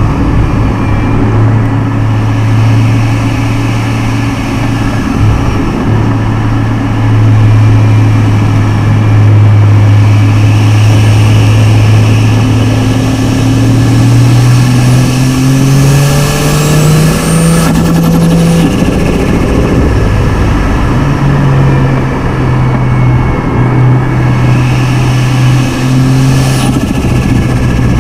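Turbocharged straight-six car engine cruising at steady revs, then pulling harder with the pitch climbing and a faint rising whistle, before dropping back sharply about two-thirds of the way in and settling to a steady cruise again.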